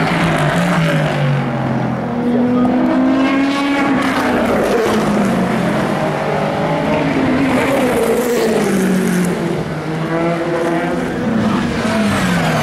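Endurance race cars passing at speed one after another, each engine note rising and then falling in pitch as the car goes by.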